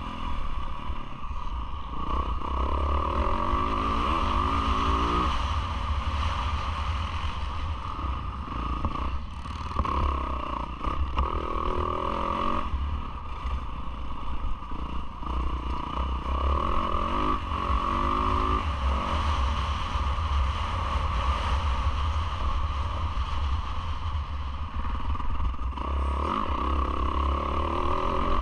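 Yamaha YZ450F single-cylinder four-stroke motocross engine at race pace, revving up again and again as the bike accelerates out of turns, with clatter from the bike over the rough track.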